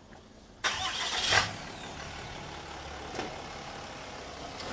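A truck's engine accelerating close by: a sudden loud rush of engine and road noise that swells for about a second, then settles into a steady low running rumble, with a short sharp click a few seconds in.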